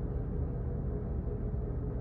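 Steady low rumble of office background noise with a faint even hum; no distinct ticks stand out.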